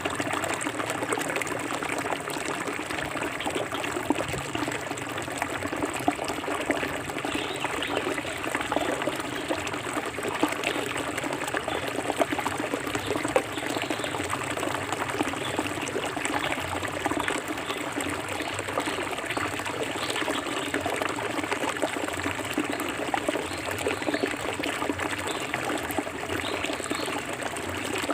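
Shallow forest stream flowing and burbling steadily over rocks, a constant rush of water with many small splashes and trickles.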